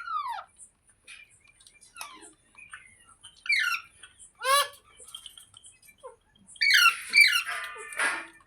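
Green parrot calling with short, arched squawks spaced a second or more apart. Near the end comes a quick run of calls that finishes in a harsh, rasping squawk.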